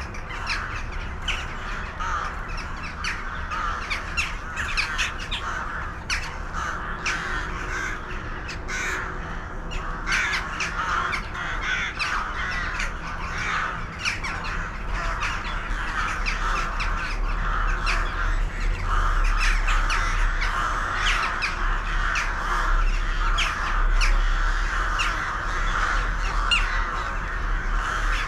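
A large flock of birds calling all at once, a dense unbroken chorus of many short overlapping calls. A low rumble comes in about halfway through and stays.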